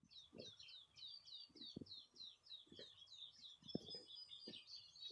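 Faint bird calls: a rapid, even run of short, high chirps, about three a second, with a few soft low thumps underneath.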